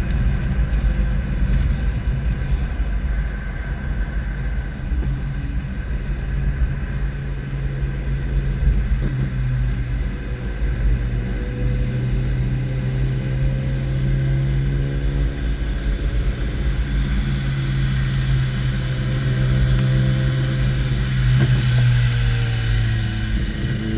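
Vehicle running steadily at low speed, heard from a camera on its bumper: a constant low engine hum over road and wind rumble. A fainter, higher engine note wavers and rises in the second half.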